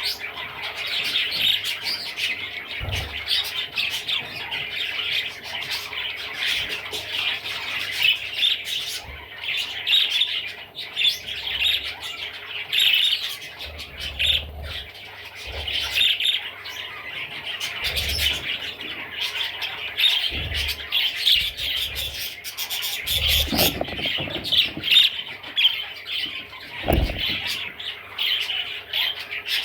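Budgerigar chattering and warbling without a break, a fast stream of chirps and squawks, with a few soft low thumps scattered through.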